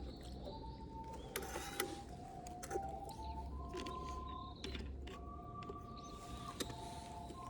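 Slow two-part melody of held, pure flute-like notes that step from pitch to pitch, typical of alto recorders playing together, with a few sharp clicks scattered through it.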